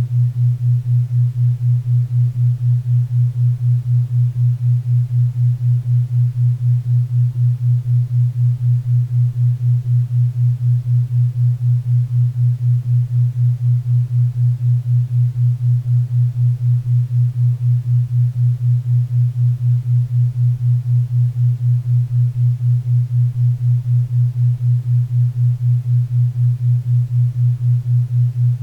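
Synthetic 4 Hz theta-wave beat: a steady low tone pulsing evenly about four times a second, over a faint bed of pink and brown noise.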